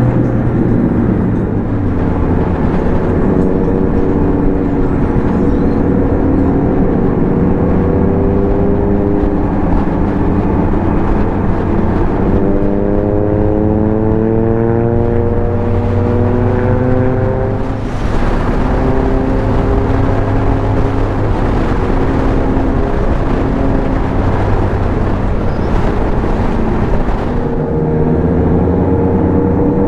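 Engine of a ridden motorcycle-type vehicle running under way with heavy wind and road rumble on the microphone. Its pitch climbs steadily for several seconds past the middle, drops briefly, then holds steady again.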